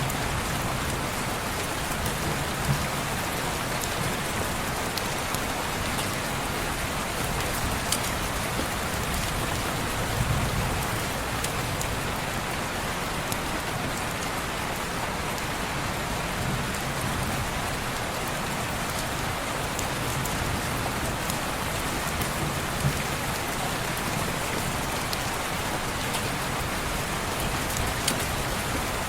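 Steady rain falling on window glass, an even rushing hiss with scattered sharp ticks throughout.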